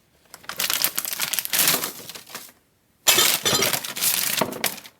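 Frozen mango chunks poured from the bag into a strainer, clattering and rattling like hard pieces, in two pours with a short pause between them about two and a half seconds in.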